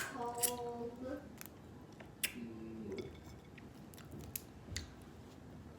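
Chewing and eating steamed blue crab, with a few sharp clicks and cracks of shell being picked apart.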